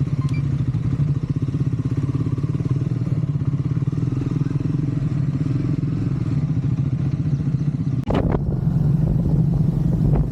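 Triumph Scrambler 400 X's single-cylinder engine running at a steady cruising pitch. From about eight seconds in, wind buffets the microphone.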